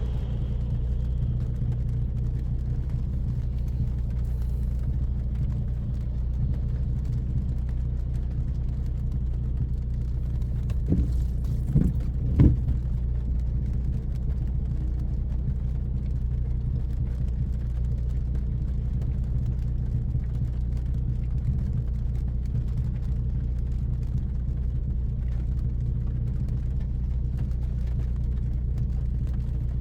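2014 Ford Focus ST's turbocharged 2.0-litre four-cylinder, breathing through a high-flow catted downpipe and straight 2.5-inch exhaust, running steadily at a constant cruise. Three short knocks come close together about eleven to twelve seconds in.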